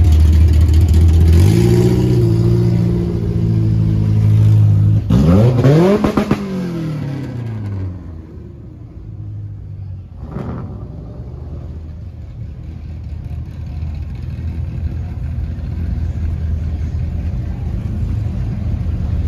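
Car engines rumbling past close by. One deep engine is revved up and held about a second and a half in, then revved up and down several times around five to six seconds. After that comes a softer, steady traffic rumble with a single short sharp noise near the middle, building again toward the end.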